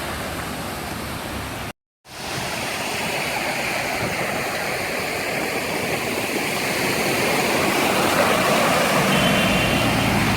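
Floodwater rushing steadily along a street after heavy rain, briefly cutting out about two seconds in and growing louder toward the end, where a steady hum joins it.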